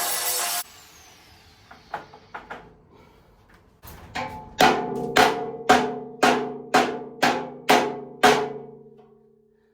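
A power cutting disc on steel cuts off just after the start, with a falling whine as it spins down. A few light knocks follow, then about nine evenly spaced blows on the steel frame, each ringing on the same metallic notes and fading.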